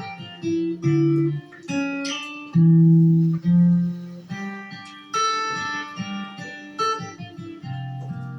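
Guitar playing slowly, single picked notes and chords ringing out and fading one after another.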